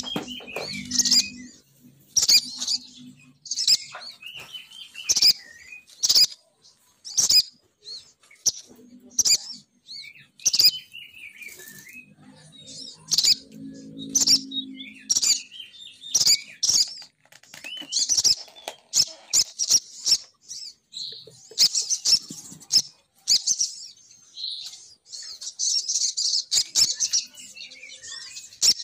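Female sogon bird calls played as a bird-lure (pikat) recording: sharp, high chirps about once a second with lower warbling phrases between them, turning into a fast, dense run of calls in the last third.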